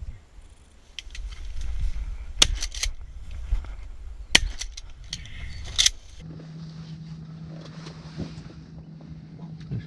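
Three shotgun shots, about two seconds and then a second and a half apart, over a low rumble. A steady low hum starts about six seconds in.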